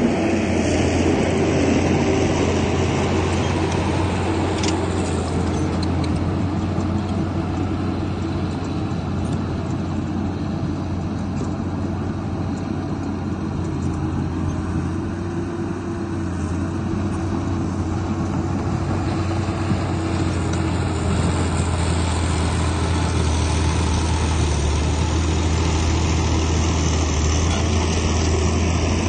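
Komatsu bulldozer's diesel engine running steadily at work, a continuous low drone with a few faint clanks about five seconds in.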